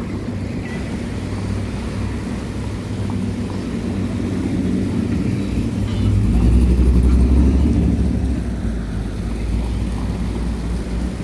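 Low rumbling noise from riding a bicycle outdoors: wind on the microphone and road noise. It swells louder for about two seconds in the middle.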